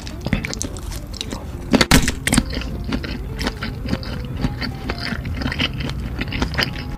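Close-up ASMR-style eating sounds: biting and chewing, a dense run of crunchy clicks, with a louder flurry of bites about two seconds in.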